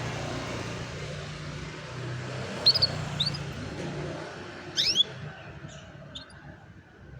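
A canary gives a few short, high, rising chirps, the loudest about a third of the way in and again past the middle. Under them is a steady rumble and hiss that fades near the end.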